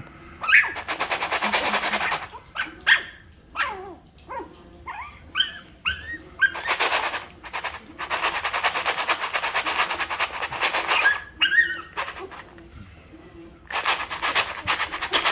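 Chihuahua puppies whimpering and yelping in short high cries that fall in pitch. Between the cries come several-second stretches of a rapid, raspy pulsing sound.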